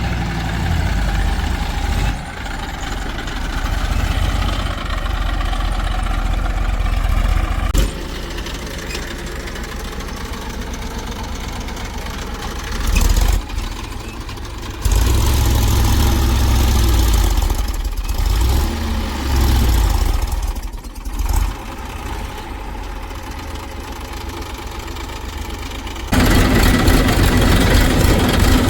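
Diesel engines of a backhoe loader and tractors running, mostly at idle with some revving. The sound changes abruptly several times, as between separate clips.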